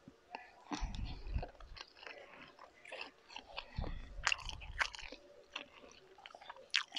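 Close-miked eating: a person chewing food with many short wet mouth clicks, and two brief low rumbles about one and four seconds in.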